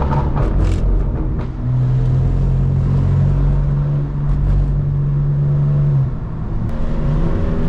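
Straight-piped BMW M4 Competition's twin-turbo straight-six running hard with a steady drone, with a few sharp cracks in the first second. The note drops off briefly about six seconds in, then climbs in pitch again near the end as the car pulls.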